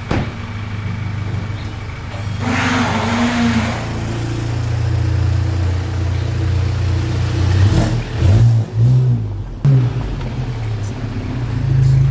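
Volkswagen Golf 7 GTI's turbocharged 2.0-litre four-cylinder engine running at low revs as the car pulls out and manoeuvres, with a short rise in revs about two and a half seconds in and the engine note rising and falling again around eight to nine seconds in.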